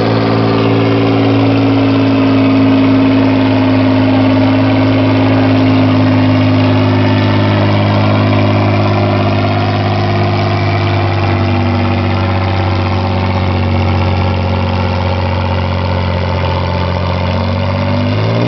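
Pulling tractor's engine running loud and steady, its pitch sagging slightly over time, then cutting off abruptly at the very end.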